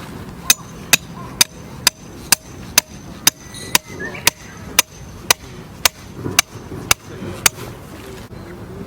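Steady hammering: about fifteen sharp blows, roughly two a second, each with a faint metallic ring.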